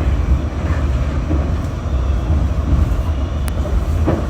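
Subway train running, a steady low rumble, with one sharp click about three and a half seconds in.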